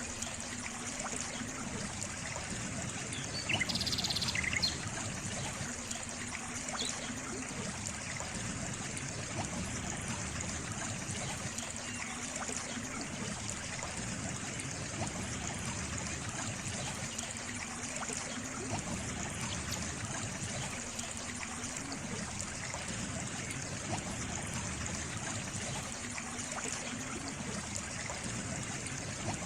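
Water trickling and flowing steadily, with a brief chirp about four seconds in.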